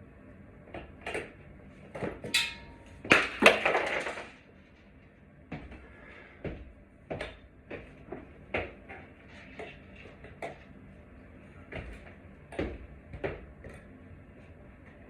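Scattered knocks and clicks of hard objects being handled. A louder rattling clatter comes about three seconds in.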